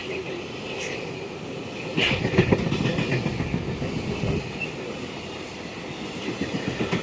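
Train running along the track, its wheels clattering on the rails, growing suddenly louder about two seconds in, with brief high wheel squeal.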